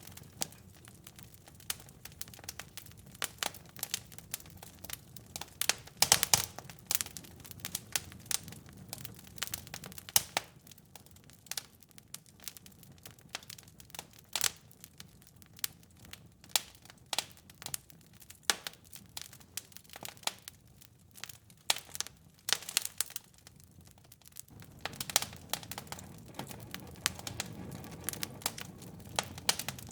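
Wood fire in a fireplace crackling, with irregular sharp pops and snaps, a cluster of loud ones about six seconds in. Under the pops runs a low rumble of burning that drops away about a second in and returns about 25 seconds in.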